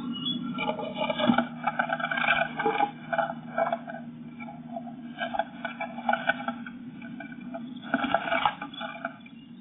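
Blue tit scrabbling about inside a wooden nest box: claws scraping on the bare wooden floor and rustling the moss, with wing flutters, in three bouts over a steady low hum.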